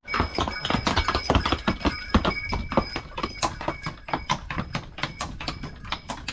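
Quick footsteps on a stone path or steps, many short knocks a second, with a faint steady high-pitched tone behind them.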